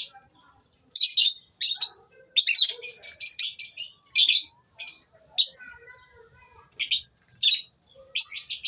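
Lovebirds in a colony calling: loud, high-pitched chirps in quick, irregular clusters, with a short lull just past the middle.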